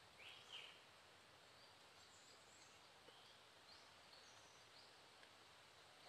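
Near silence: faint outdoor background hiss with a few faint, short, high bird chirps, two a little louder right at the start.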